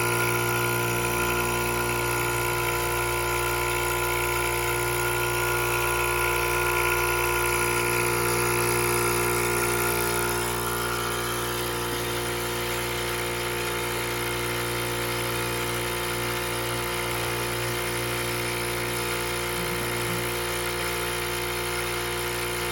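Milking machine's vacuum pump running steadily with a motor hum while it milks the cow, with a higher hiss of air being drawn through that drops away about ten seconds in.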